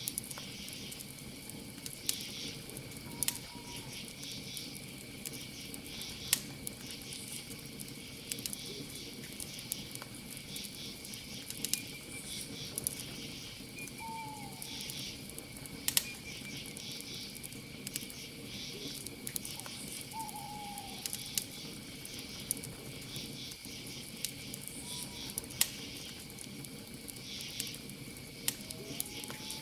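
Campfire crackling, with irregular sharp pops over a low steady hiss of burning wood. Crickets chirp steadily throughout. Every several seconds an owl gives a short, falling call.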